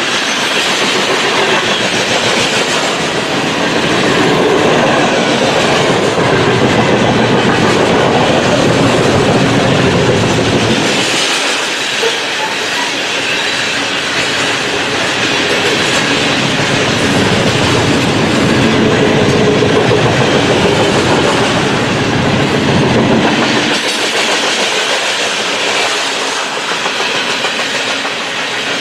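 Train rolling past, a loud, continuous rumble of railcar wheels on the rails, with the deepest part of the rumble easing briefly twice.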